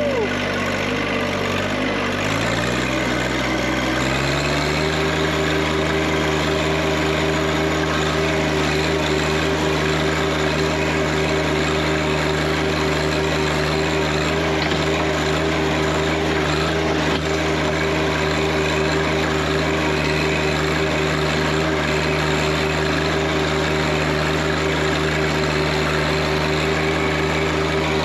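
Tractor engine revving up in steps over the first few seconds, then running steadily at higher speed under way.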